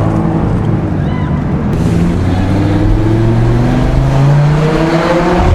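Sports car engine with a muffler-less exhaust accelerating hard in a tunnel. The exhaust note climbs steadily in pitch, then drops back near the end.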